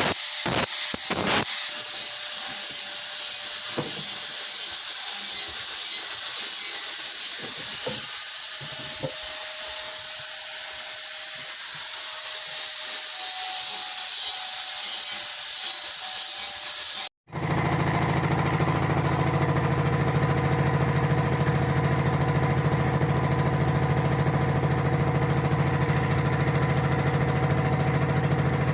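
A power tool working on the saw, a loud high hissing rasp with a steady high whine. About 17 seconds in it cuts off abruptly and is replaced by the steady low drone of a motor or engine running evenly.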